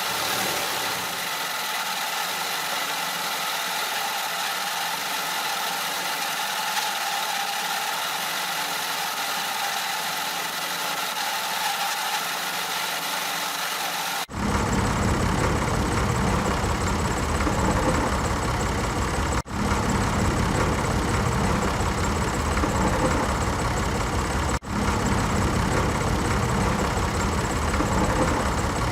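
A small motor running steadily with a whine. About halfway through it cuts abruptly to a louder, deeper engine-like running sound with brief dropouts about every five seconds.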